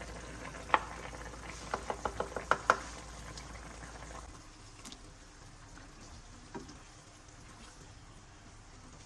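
Food frying in a pan with a steady sizzle, and a cooking utensil knocking against the pan: once just under a second in, then about six quick knocks around two seconds in.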